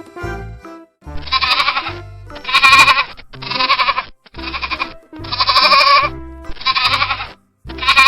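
Sheep bleating, about seven separate bleats in a row starting about a second in, over background music.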